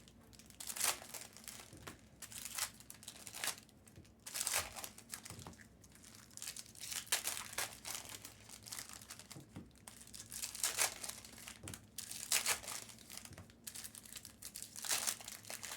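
Foil trading-card pack wrappers being torn open and crinkled by hand, in irregular rustling bursts.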